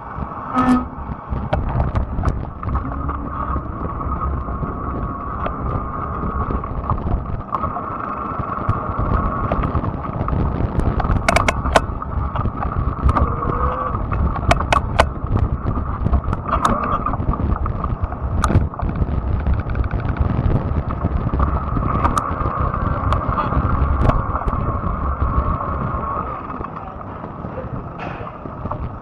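Fat-tire electric bike in motion: a steady rumble of tyres and wind on the microphone, with a constant hum and scattered sharp clicks and knocks from the ride.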